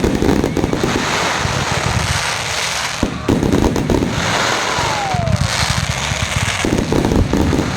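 Fireworks going off in a rapid, unbroken string of bangs and crackles, with heavier volleys at the start, about three seconds in, and near the end.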